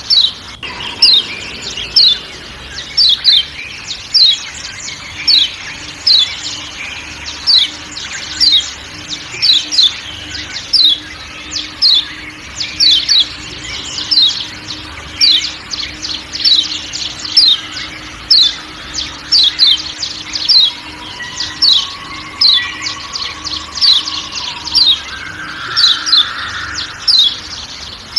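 Lombok yellow white-eye (kecial kuning, a Zosterops white-eye) giving a long run of sharp 'ciak' call notes, each a quick downward chirp, repeated about one and a half times a second over faint forest ambience.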